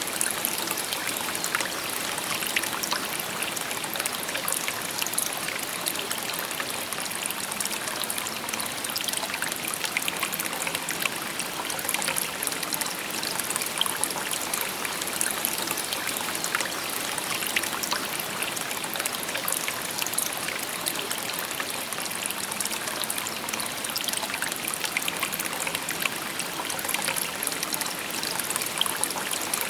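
Shallow river babbling over stones: a steady murmur with many small splashes and trickles, no change in its flow.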